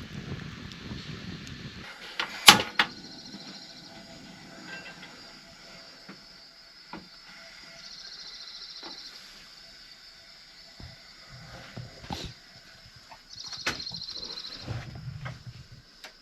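A loud sharp knock about two and a half seconds in, followed by scattered lighter clicks and knocks, with three short high buzzing trills in between.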